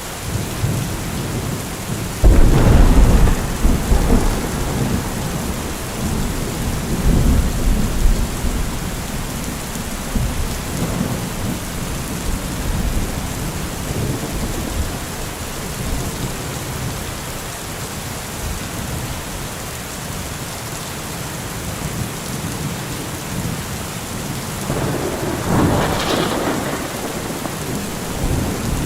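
Steady rain falling, with thunder: a loud rumbling peal from about two seconds in that rolls on for several seconds, and a second, shorter rumble near the end.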